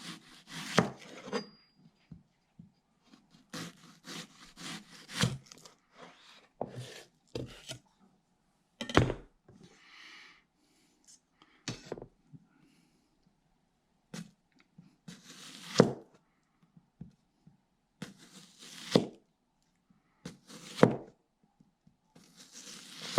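Kitchen knife slicing an onion thin: crisp cuts through the onion onto a cutting board, in quick runs of strokes and single cuts at irregular intervals, with a softer rustle of onion layers about ten seconds in.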